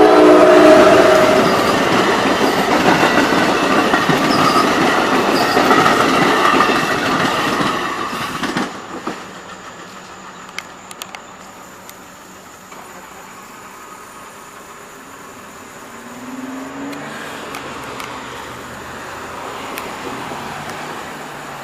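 Train horn finishing about a second in, then a train passing close by with loud wheel and rail noise, which drops off sharply after about eight seconds as it clears, leaving a faint distant rumble.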